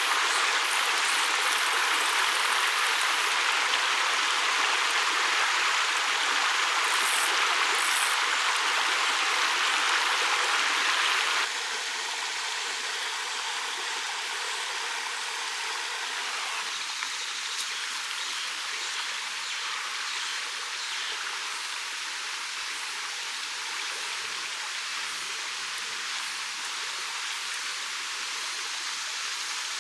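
Mountain stream rushing steadily over rocks, with no break. Partway through it suddenly drops to a softer level.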